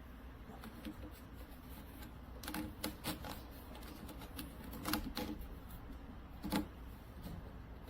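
A handful of sharp, irregular clicks and knocks, about six, the loudest about five seconds in and near the end, over a faint low steady hum.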